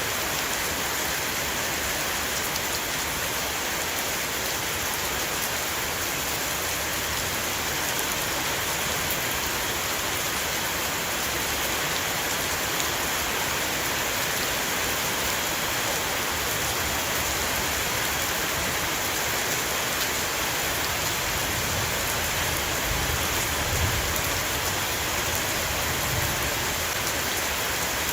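Steady heavy rain shower falling on a roof, an even hiss of many drops, with a slightly deeper rumble near the end.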